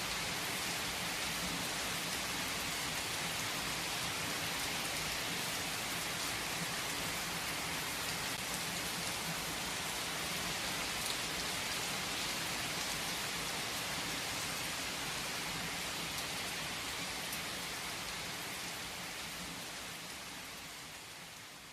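Steady rain falling, a dense hiss with scattered drop ticks, fading out over the last few seconds.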